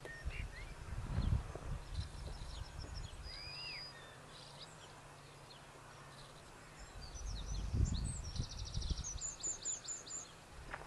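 Small birds chirping and calling, with a fast trill of repeated notes near the end. Bursts of low rumble come about a second in and again around eight seconds.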